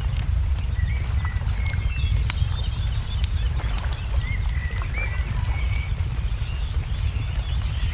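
Wood fire crackling, with scattered sharp pops, mixed with songbirds chirping in short rising and falling notes, over a steady low rumble.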